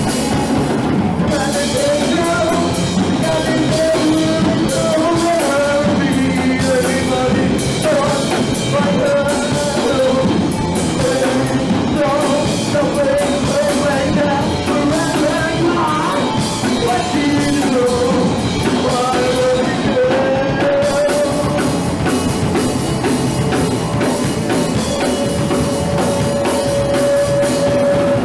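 Punk rock band playing live: drum kit and band with a sung vocal line, ending in a long held note near the end.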